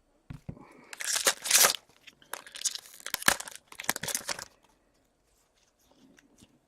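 A trading card pack's wrapper being torn open and crinkled: a run of loud tearing and crackling bursts that stops about four and a half seconds in, followed by a few soft clicks.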